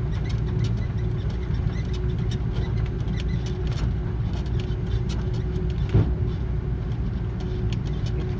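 Airbus A330 cabin noise on the ground after landing: a steady low rumble with a faint steady hum and scattered small rattles and clicks, and one sharp knock about six seconds in.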